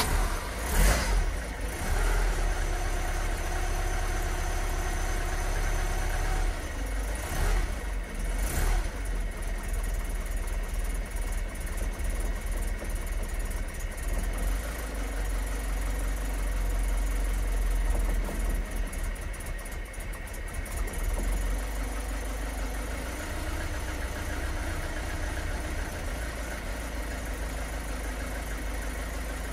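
1986 Vauxhall Cavalier's S16SH four-cylinder engine with Varajet 2 carburettor running just after a cold start, uneven at first and settling to a steadier idle after about twenty seconds; the owner puts the rough running down to too lean a mixture on the manual choke. Two sharp clicks come about seven and a half and eight and a half seconds in.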